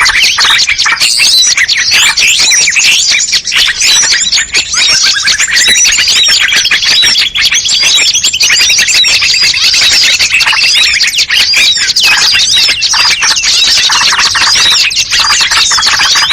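Dense, loud chorus of many small songbirds calling over one another, a lure mix of several species. A long, fast trill rises and then holds from about five to eleven seconds in.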